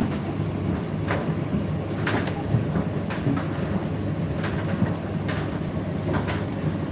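Indesit IDC8T3 condenser tumble dryer running, with a steady low hum from the motor and fan and a sharp knock about once a second as the load tumbles in the turning drum.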